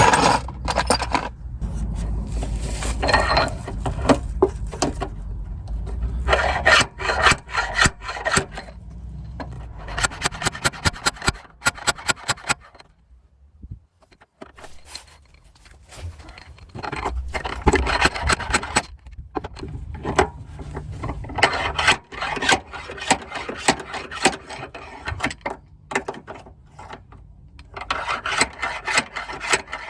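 Hook-ended dent puller scraping and rubbing against car body metal in repeated bouts while the dented corner is pulled out, with a fast run of clicks about a third of the way through.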